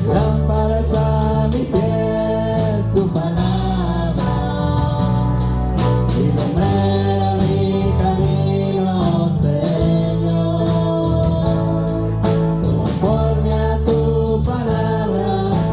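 Live church worship music: a band with a steady drum beat and sustained bass, with singing voices over it.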